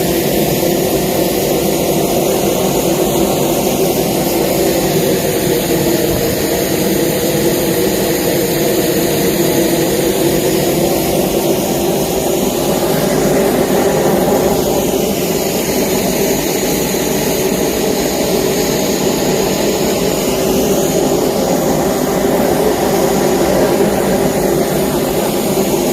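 A loud, steady engine drone with a hum of several steady tones and a higher whine that slowly rises and falls.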